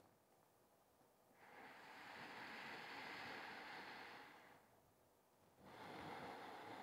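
Faint, slow breathing: one long breath swells and fades over about three seconds, and another begins near the end.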